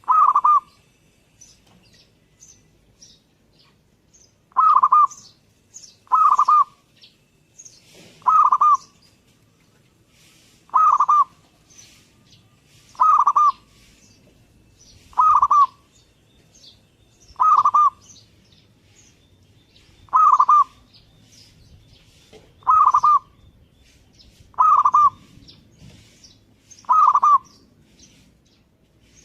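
Zebra dove (perkutut) in full song: a short rolling coo phrase repeated about every two seconds, twelve times over. Faint high chirps from other small birds sound between the coos.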